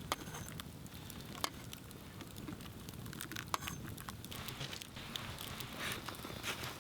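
Wood campfire crackling steadily, with a few sharp pops.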